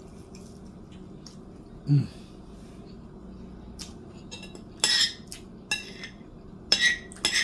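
Metal eating utensil clinking and scraping against a plate, with a few sharp clinks bunched about five seconds in and again near the end.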